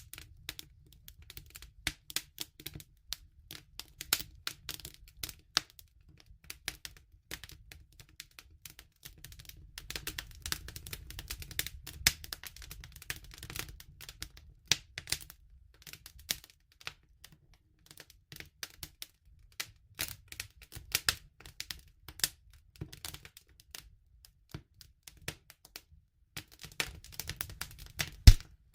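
Wood fire crackling: irregular sharp pops and snaps over a low rumble, with denser crackling in stretches and one louder pop near the end.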